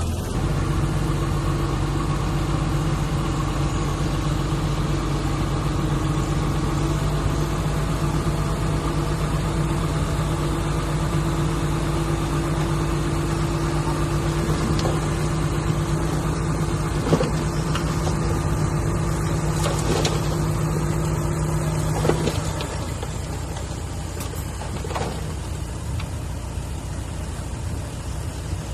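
Diesel engine of heavy earthmoving equipment running steadily, with a few sharp clanks. About 22 seconds in, its low hum drops away and the sound gets quieter.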